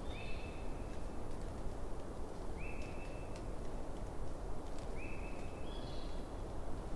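Campfire burning: a steady low rush of flame with scattered small crackles and pops. Over it, an animal in the forest repeats a short, steady high call about every two and a half seconds, three times.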